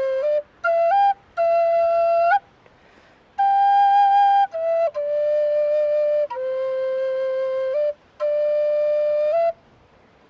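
A flute playing a slow melody of long held notes in short phrases, with brief pauses between them. The playing stops shortly before the end.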